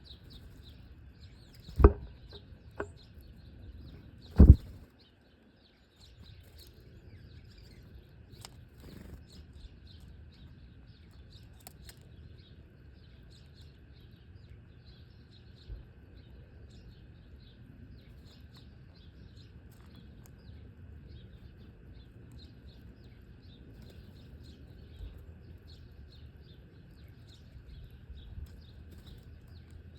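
Small birds chirping continually at a low level, with two loud knocks about two and four and a half seconds in, and a lighter one between them.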